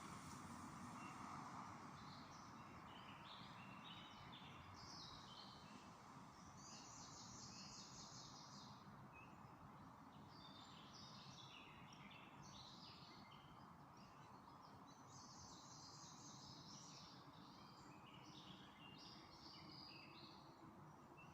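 Songbirds singing faintly in short bursts of twittering and trilling chirps, one after another, over a steady background noise.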